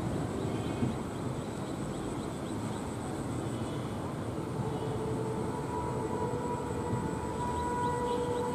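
Steady rumble of a passenger train running away along the track, hauled by an ALCO WDM3D diesel locomotive. About halfway through, a steady high tone comes in and holds to the end.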